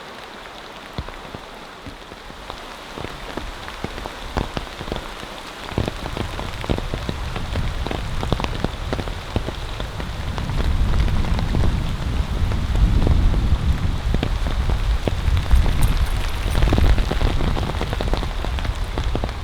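Rain falling steadily on a surface, a dense run of individual drops that grows heavier about six seconds in and again about ten seconds in.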